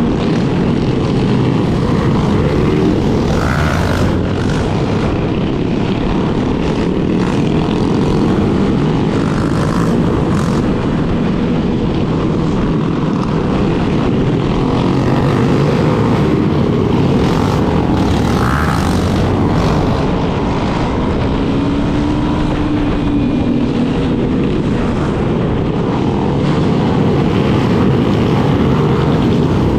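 Yamaha Lander 250 motorcycle running steadily under way, its engine sound mixed with heavy wind rumble on the helmet or handlebar camera's microphone.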